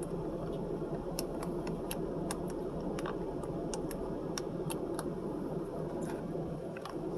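Handling noise from a phone camera being moved and repositioned: irregular sharp clicks and taps over a steady low hum.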